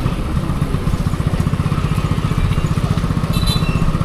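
Wind buffeting the microphone and road noise while riding a Bajaj Chetak electric scooter, a steady fluttering rumble.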